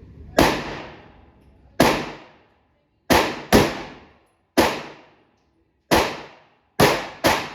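9mm pistol fired eight times in an uneven string: single shots roughly a second apart, with a quicker pair of shots near the middle and another near the end, each sharp crack trailing off in a short echo.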